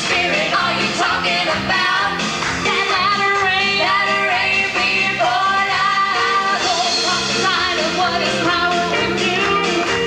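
A women's vocal quartet singing together over backing music with a bass line.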